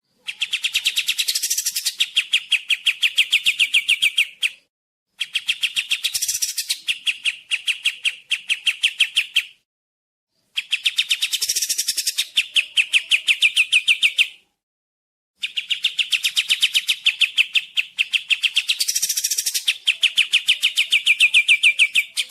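Kapas tembak songbird singing a fast, even trill of about eight notes a second. It comes in four bouts of four to seven seconds, each broken by a silent gap of under a second.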